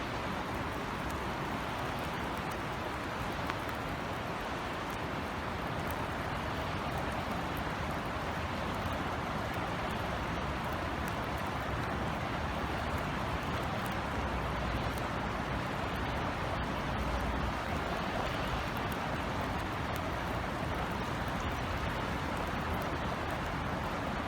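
Steady rain falling, an even hiss with scattered sharp drop ticks. A low rumble swells briefly past the middle.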